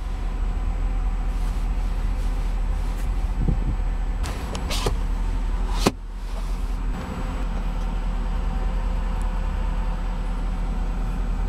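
Electric motor of a car's power sunshade running steadily as the shade slides along the panoramic roof. It stops briefly with a click about halfway through, then runs on again.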